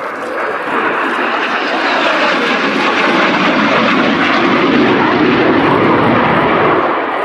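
Lockheed Martin F-35B Lightning II jet making a high-speed flypast: its single Pratt & Whitney F135 turbofan is a loud, dense jet roar that builds to its loudest in the second half and eases slightly near the end.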